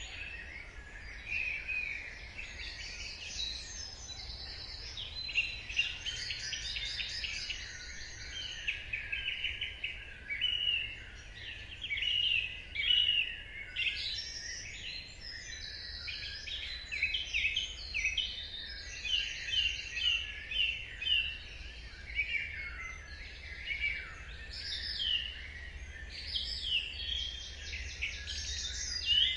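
Dawn chorus of several songbirds singing at once: overlapping chirps, trills and fast runs of high notes, over a faint steady low rumble.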